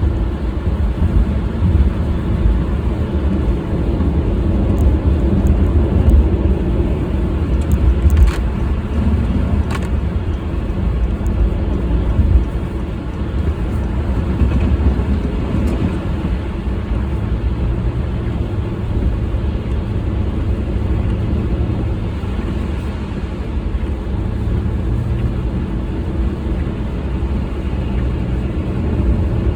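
Car driving: a steady low rumble of engine and road noise, with a couple of faint clicks about a third of the way through.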